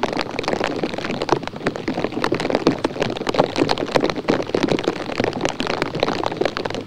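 Water drops pattering densely and irregularly on a surface close to the microphone, a steady spatter of small ticks like light rain.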